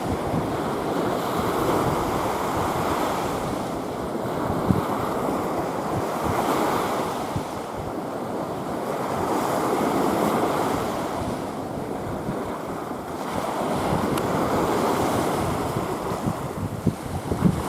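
Sea waves washing in slow surges every few seconds, with wind buffeting the microphone.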